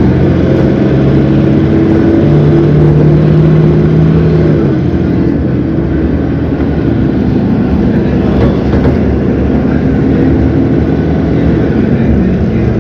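Cummins ISB 6.7 inline-six turbodiesel of an Agrale MT17 city bus running under load with a steady drone, its pitch dropping a step about five seconds in.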